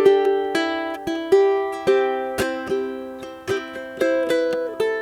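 Solo ukulele, a Flight Fireball, strummed in a steady rhythm: sharp strums a little under two a second, each chord ringing on between them, with chord changes every second or so.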